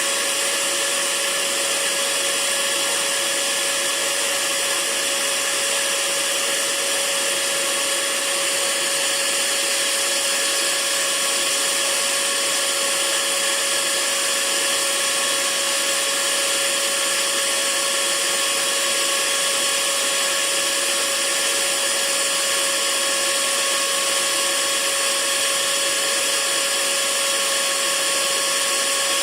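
Hair dryer running steadily, a constant rushing hiss with a faint steady hum, unchanging throughout.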